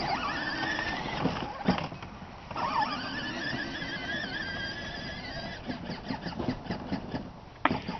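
Electric motors of a child's battery-powered ride-on toy truck whining as the pedal is held down, cutting out briefly about two seconds in and starting again, the pitch wavering with speed. In the second half there are irregular clicks and a sharp knock near the end.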